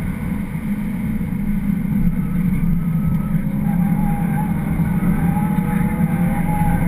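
BMW 335xi's twin-turbo straight-six running at speed on a race track, heard from inside the cabin as a steady engine drone with road noise. A faint higher whine joins about halfway through.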